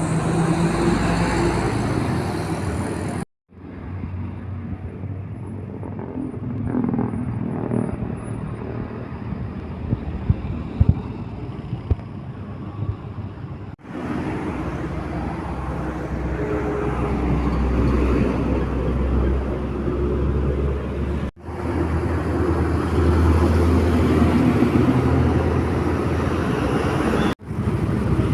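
Trucks and other road traffic passing, with heavy engines running and tyre noise on the road. The sound breaks off abruptly for a moment four times.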